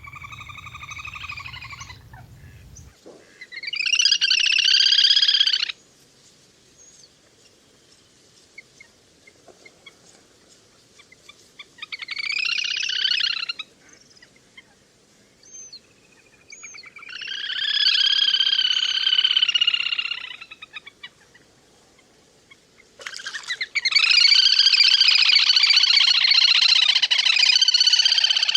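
Little grebe (le hôi) calling in five bouts of rapid, high trilling, each lasting one to five seconds, with the last bout the longest.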